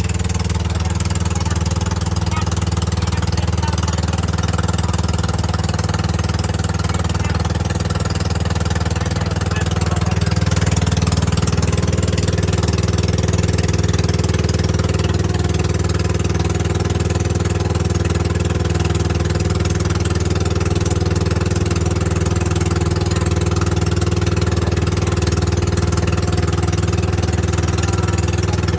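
Boat engine running steadily, growing a little louder about ten seconds in.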